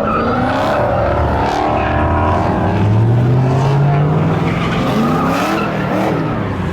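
A car's engine revving hard while its tyres squeal and slide. The engine note climbs steadily about halfway through.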